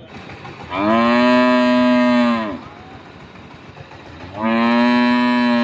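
Cow mooing: one long moo about two seconds long that drops in pitch as it ends, then a second long moo that starts near the end.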